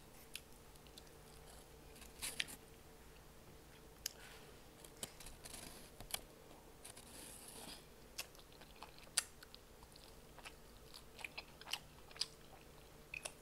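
Close-up eating sounds: a chicken wing being bitten and chewed, with scattered short wet mouth clicks and smacks and a few brief sucking hisses.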